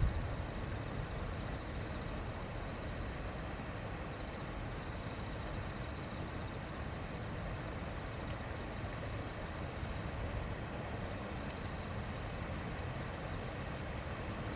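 Shallow river babbling, a steady rush of flowing water.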